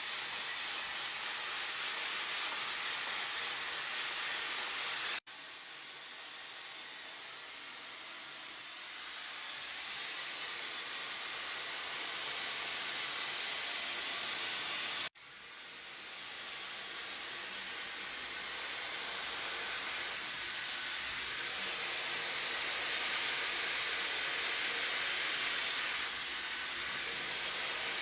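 Tideway hair dryer blowing a steady hiss of air. The sound cuts out for an instant and comes straight back twice, about five and about fifteen seconds in, and is quieter for a while after the first break.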